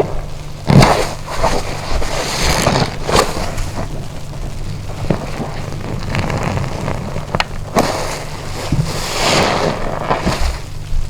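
Wet car wash sponge being squeezed and rinsed: repeated squelching squeezes with water running out, over a steady low hum.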